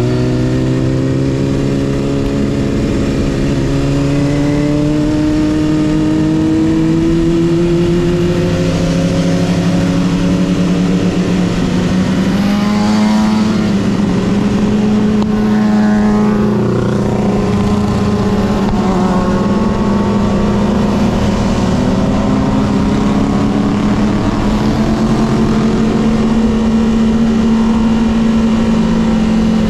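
Motorcycle engine and exhaust running at a steady, held speed, its pitch creeping slowly up. A second engine briefly rises and falls in pitch around the middle.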